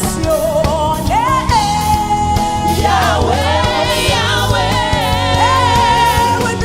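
Gospel worship music: a singer holds long notes with vibrato and slides between them over a band with a steady low bass.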